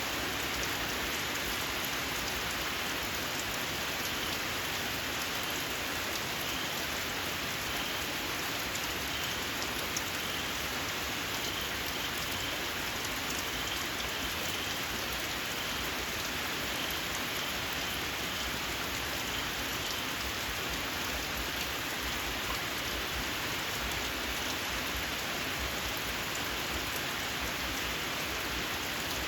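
Steady rain falling. From about four seconds in until about twenty seconds, a small frog gives a faint series of short, high, squeaky calls over it.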